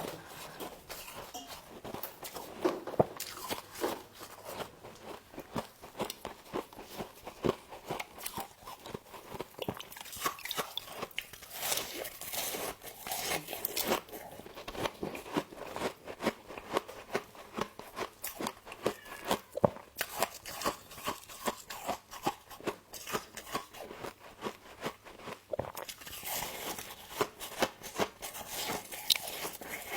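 Frost being bitten and chewed close to the microphone: a continuous run of small, crackly crunches, busier about a third of the way in and again near the end.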